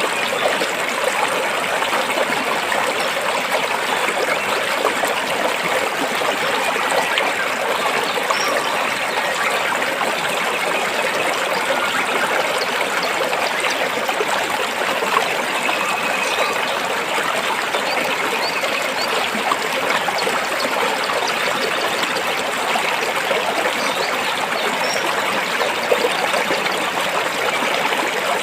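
Stream water flowing steadily over and between rocks, a continuous trickling and splashing without a break.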